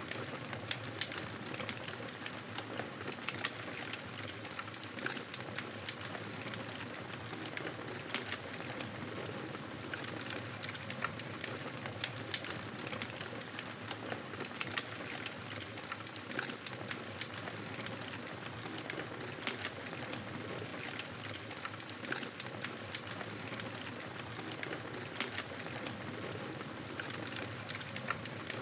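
Wood fire crackling in a fireplace: a steady hiss with frequent sharp pops and snaps.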